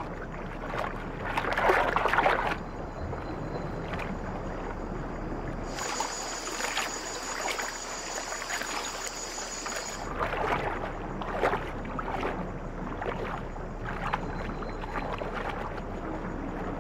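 Water splashing and sloshing in irregular strokes as an armadillo paddles through floodwater. For about four seconds in the middle a steady high-pitched whine runs over the splashing.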